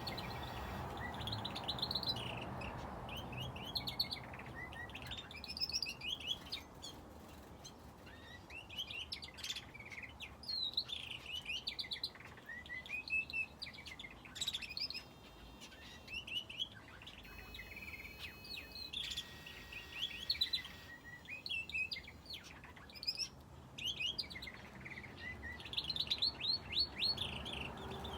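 Small aviary finches and a canary chirping and twittering: a stream of short, high calls in quick overlapping clusters, with brief lulls between them.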